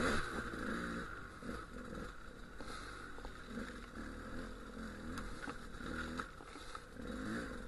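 Dual-sport motorcycle engine running at low speed, its revs rising and falling again and again as the bike picks its way over rough lava rock, with a few sharp knocks.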